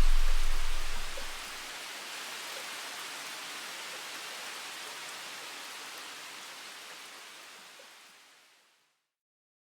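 End of an electronic dance background track: the bass drops out within the first second or two, leaving a wash of white-noise hiss that slowly fades away over about seven seconds.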